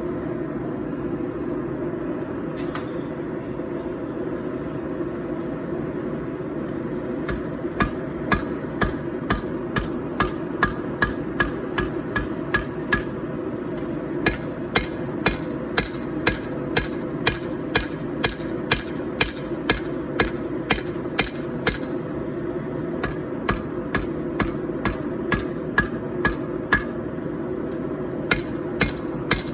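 Hand hammer forging a 4140 steel knife blank on an anvil. The blows come in runs of about two a second with short pauses between runs, each blow ringing sharply. A steady low roar runs underneath.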